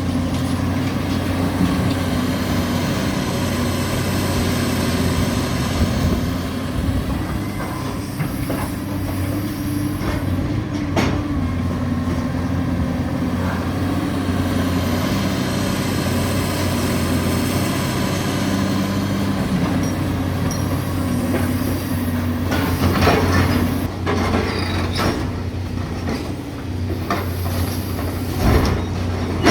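Caterpillar demolition excavator's diesel engine running steadily under hydraulic load, with debris and metal knocking and crunching as the building is torn down, the knocks coming thickest near the end.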